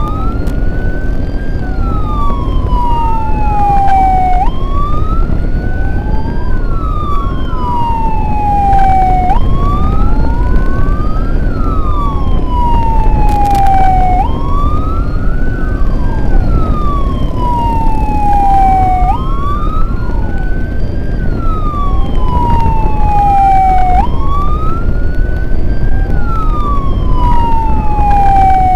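Emergency-vehicle siren wailing in a repeating cycle of about five seconds: the tone jumps up, climbs briefly, then glides slowly down, with a second fainter siren sweep crossing it out of step. Steady road and wind noise underneath.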